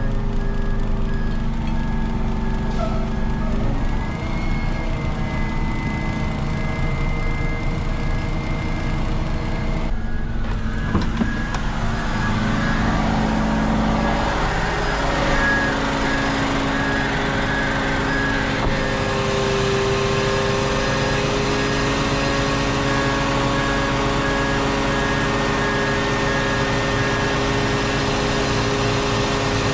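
Truck engine running steadily, with a faint, regular high beeping repeating evenly throughout.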